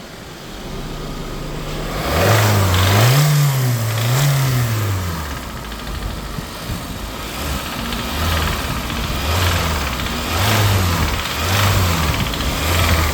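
2018 Hyundai car engine being revved by hand: two longer rises in engine speed a few seconds in, then about five short throttle blips, each falling back toward idle, with a rattle under load. The mechanic calls this sound engine failure; the knock makes the engine pull ignition timing on cylinders 2, 3 and 4.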